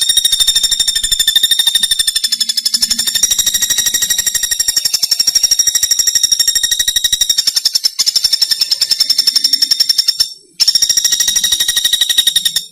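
Pelatuk bawang (common flameback woodpecker) calling in a long, very rapid, high-pitched rattling trill, with a brief break about ten seconds in before it resumes and cuts off.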